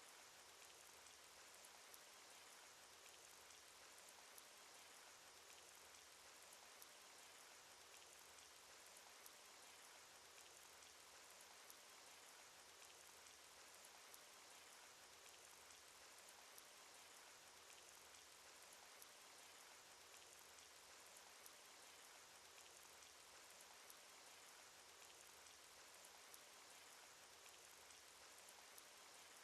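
Faint, steady cartoon rain sound effect: an even hiss of rainfall with many small drop ticks scattered through it.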